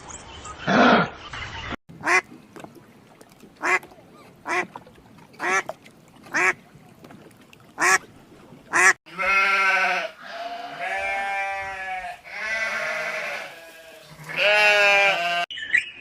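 Animal calls: a run of short, evenly spaced calls about once a second, then several long, wavering calls.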